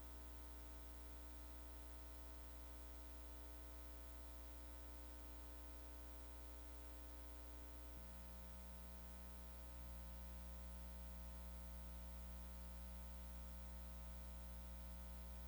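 Near silence with a steady electrical hum from the sound system. The hum's tones change slightly about eight seconds in, and it gets a little louder about ten seconds in.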